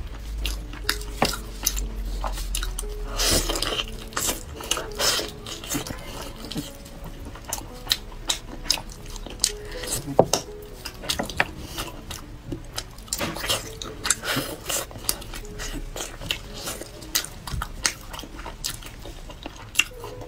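Close-up chewing and biting of braised pork hock, full of sharp smacking mouth clicks several times a second.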